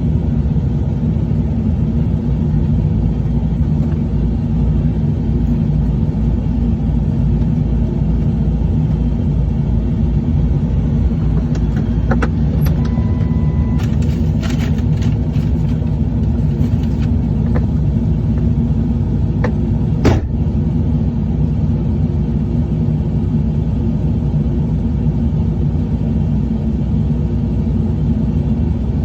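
Tow truck engine running steadily, a low continuous drone, with a brief beep about twelve seconds in and a few scattered clicks and knocks, the sharpest about twenty seconds in.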